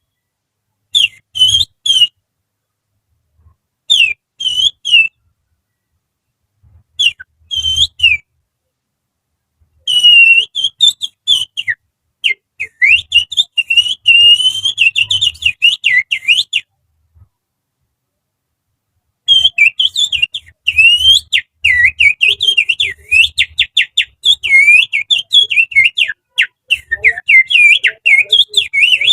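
Finger whistling through the little finger, imitating the song of an oriental magpie-robin (kacer). It starts with three short phrases of gliding notes. Then come long, fast warbling runs of rapid up-and-down notes, with a pause of about two seconds in the middle.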